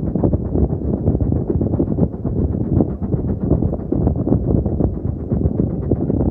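Steam train in motion: a steady low rumble with dense, irregular knocking and wind buffeting the microphone.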